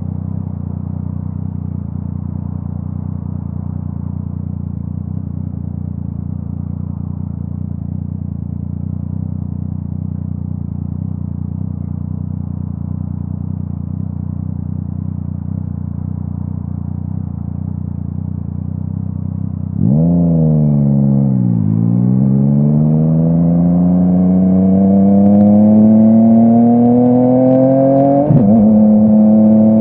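Yamaha MT-09's inline three-cylinder engine through a full Akrapovic exhaust, running steadily at a low, even idle. About two-thirds in it gets suddenly louder and pulls away, the pitch climbing steadily as it accelerates, then drops sharply with an upshift near the end and holds steady.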